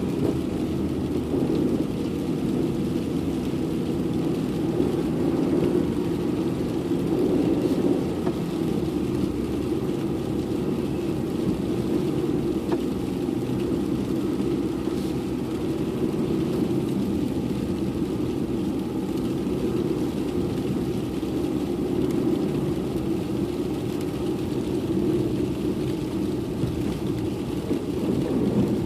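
Car driving on a snowy road: steady engine and road noise that holds at an even level.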